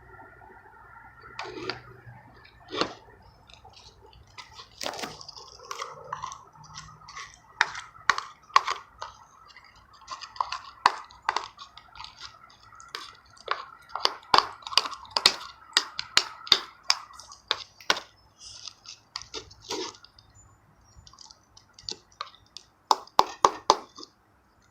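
Clear slime being mixed and worked: irregular wet clicks and squelches, coming thick and fast through the middle and again in a short burst near the end.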